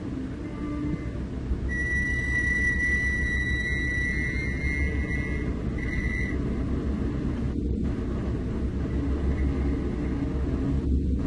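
Heavy diesel engine running with a steady low rumble. A thin, high, whistle-like tone sounds over it for about four seconds in the first half.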